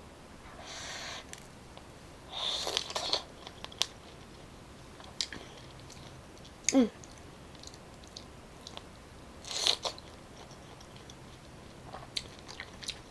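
Close-miked bites and chewing of fresh, juicy pineapple pieces: a few short, wet crunching bursts, with quieter chewing and mouth clicks between them.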